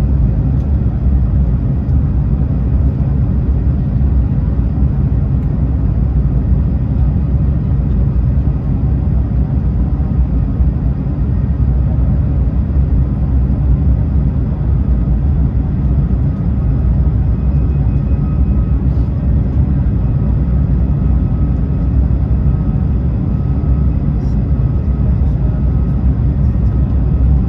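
Steady low rumble of cabin noise inside an Airbus A220-300 airliner, from its Pratt & Whitney geared turbofan engines and the airflow, with a faint steady whine above it.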